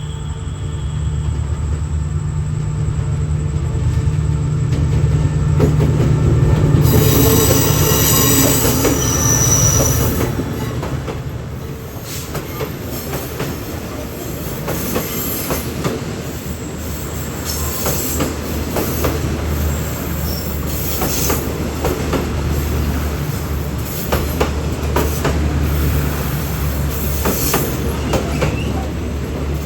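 A locomotive-hauled train passing close by. A low engine drone rises with a high wheel squeal for a few seconds about a quarter of the way in, then the rapid clicking of wheels over rail joints runs on as the cars roll past.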